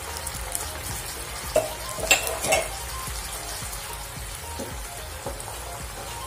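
Pork pieces, onion and garlic sizzling steadily in a nonstick wok in a little freshly added water, stirred with a wooden spatula. A few sharp knocks and scrapes of the spatula on the pan come around two seconds in.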